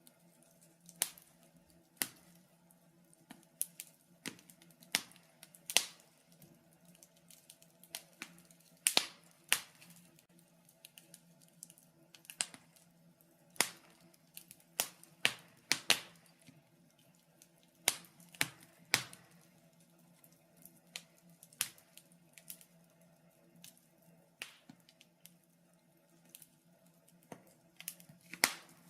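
Wood fire crackling in a fireplace: irregular sharp pops and snaps, about one or two a second, some much louder than others, over a faint steady hum.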